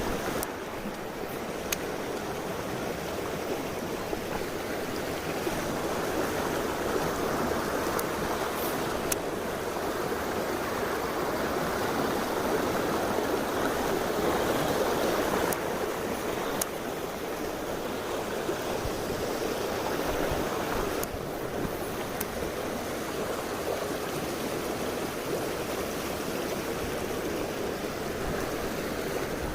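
Mountain stream water running steadily, with a few faint clicks.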